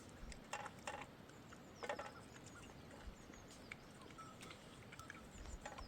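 Grazing flock of sheep, with a few short, faint bleats about half a second, one second and two seconds in.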